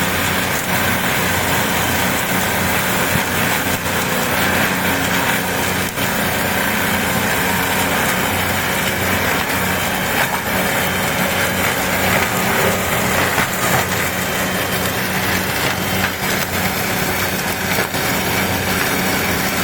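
Tractor engine running steadily under load, driving a forestry mulcher that is shredding trees, with a dense grinding noise over the engine and a few sharp knocks.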